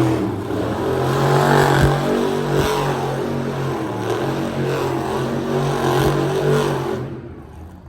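Monster truck engine running loud and revving, with a few sharp knocks along the way; the engine sound falls away near the end.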